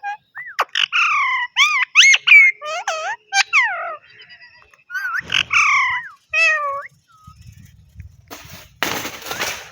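Pet parrot giving a run of short chirps and whistled calls that swoop up and down in pitch, in two bursts with a short pause between. Near the end comes a harsh, rasping noise lasting about a second.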